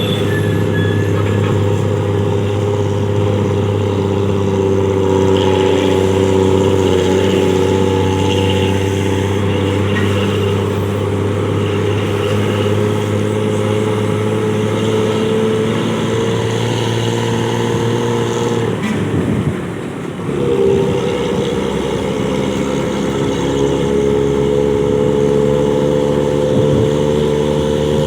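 Harapan Baru bus engine running through its modified exhaust, a loud steady drone that holds its pitch. About nineteen seconds in it briefly drops away and dips, then picks up again and slowly rises, as with a gear change.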